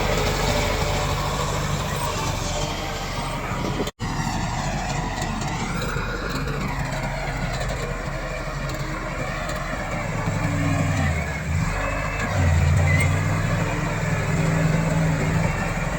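Komatsu D68 bulldozer's diesel engine running under working load, its engine note dipping and rising again between about ten and thirteen seconds in. The sound breaks off for an instant about four seconds in.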